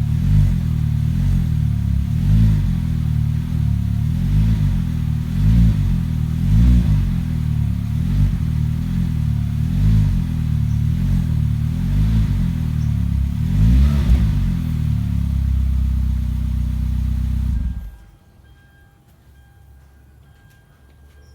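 Perodua Bezza's exhaust through an aftermarket HKS S-Flow muffler, idling with short throttle blips every second or two. About 18 seconds in the engine is switched off and the sound cuts out suddenly.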